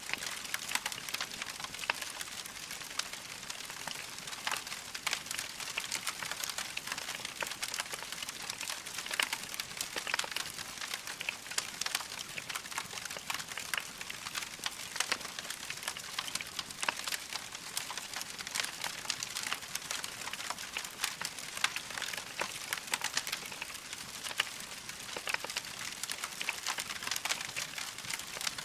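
Wood fire crackling steadily in a fireplace: a constant hiss dotted with many irregular sharp pops and snaps.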